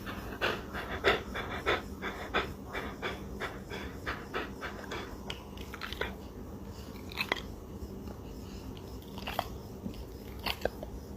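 A dog making a rhythmic series of short noisy breaths or mouth sounds, about three a second. After about five seconds these thin out into scattered clicks.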